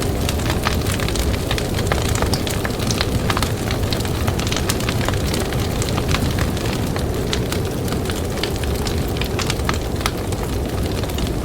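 Wood campfire crackling, with frequent irregular sharp pops and snaps over a steady low rush of blizzard wind.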